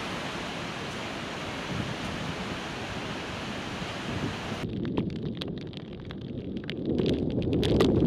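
Storm surf and wind ahead of a typhoon: a steady rush of heavy waves. About halfway in it cuts abruptly to gusty wind buffeting the microphone, louder and lower, with scattered sharp ticks.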